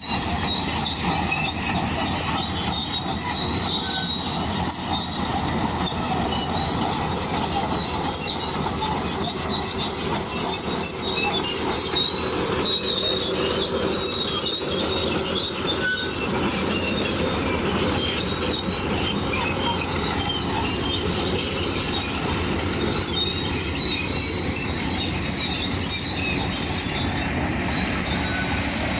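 Crawler bulldozer working, its steel tracks squealing and clanking steadily over the running diesel engine.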